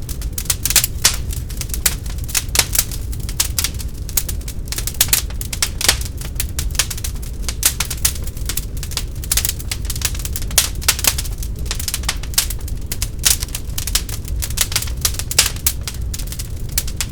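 Wood fire burning in a fireplace, crackling with many irregular sharp pops over a steady low rumble of flames.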